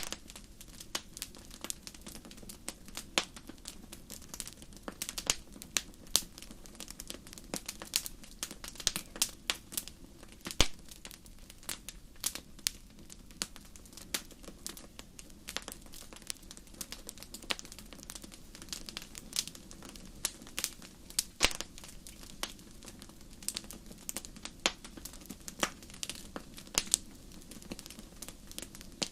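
Wood fire in a fireplace crackling: irregular sharp pops and snaps, several a second, over a steady low rush of the flames.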